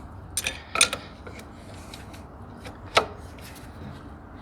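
Hand tools knocking and clicking against the diesel engine while a stuck injector is worked loose: a quick cluster of sharp clicks about a second in, and one more sharp click about three seconds in.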